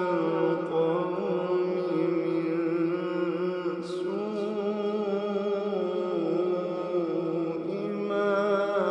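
A male voice reciting the Quran in a slow, melodic chanted style. He holds long, wavering notes with ornamented turns, and there is a brief hiss of a sibilant about four seconds in.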